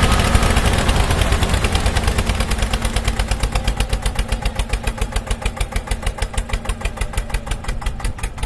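Engine chugging in an even rhythm of knocks that slows to about eight a second and fades, like an engine running down.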